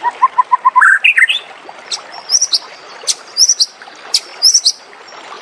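White-rumped shama (murai batu) singing. It opens with a quick run of about five low whistled notes that climb higher, then gives short, sharp high phrases roughly once a second.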